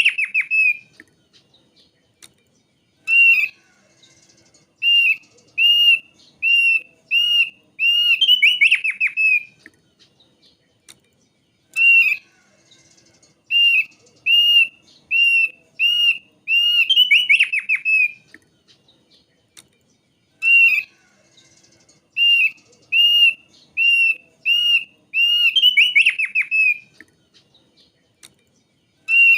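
Thick-billed white-eye (opior paruh tebal) singing: a run of clear, evenly spaced whistled notes, about one a second, that ends in a quick falling trill. The phrase comes three times.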